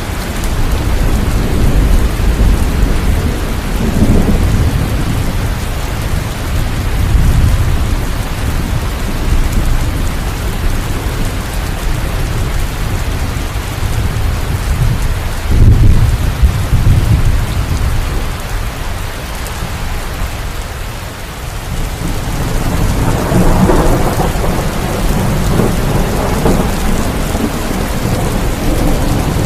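Steady heavy rain with rolling thunder. A sudden, louder thunderclap comes about halfway through, and another long rumble swells up near the end.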